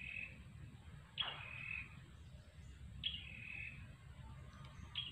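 A bird calling over and over, about every two seconds. Each call is a short high note that drops quickly and then holds briefly. A faint low rumble runs underneath.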